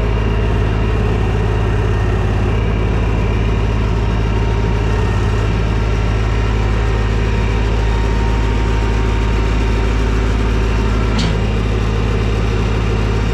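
TYM T224 subcompact tractor's diesel engine running steadily, with one short click about eleven seconds in.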